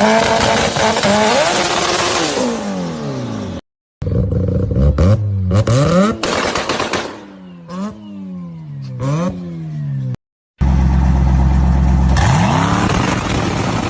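Tuned car engines in three short back-to-back clips, revving hard and dropping back again and again with sharp crackling pops, the sound of a two-step launch limiter. In the middle clip the revs climb and fall about four times in quick succession.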